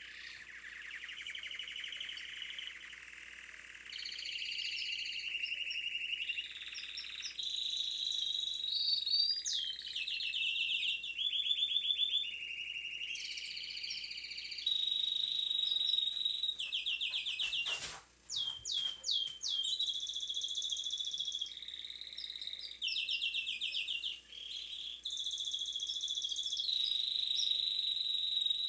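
Domestic canary song: a long run of rapid trills and held whistled notes, changing phrase every second or two, with a short burst of clicks and quick falling chirps about two-thirds of the way through.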